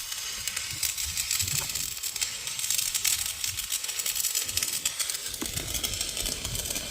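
Electric arc welding: the welding arc crackling and hissing steadily as a bead is laid, with dense fine crackles throughout.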